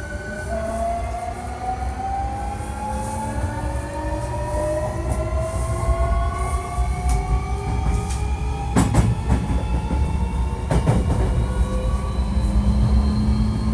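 Hankyu 1300 series electric train's Toyo IGBT-VVVF inverter and traction motors whining in several tones that climb steadily as the train gathers speed, over the rumble of the wheels on the rails. The unit is one known for an unusual noise. Two sharp clacks come from the wheels about nine and eleven seconds in.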